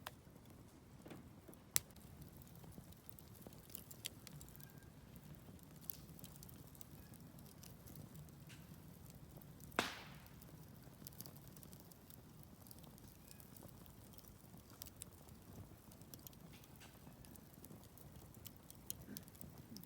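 Wood fire crackling quietly, with scattered small snaps and two louder pops, one about two seconds in and the loudest about ten seconds in.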